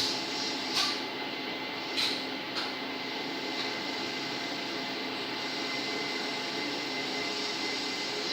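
Steady hum of a metalworking machine running during cylinder-head machining, with a few light clicks in the first three seconds.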